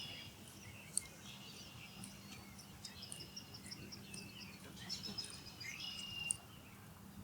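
Birds chirping and calling, with quick runs of high repeated notes in the middle, over a faint steady hum; a sharp click about a second in.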